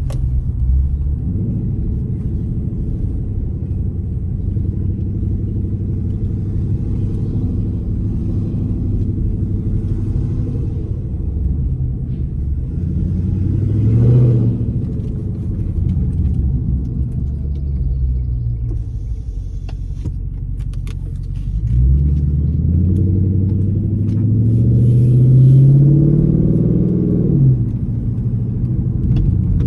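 2012 Dodge Charger SRT8's 6.4-litre HEMI V8 on a straight-pipe exhaust, driving with a steady low rumble. About halfway through it revs briefly, and near the end it pulls harder, rising in pitch for about five seconds before dropping off.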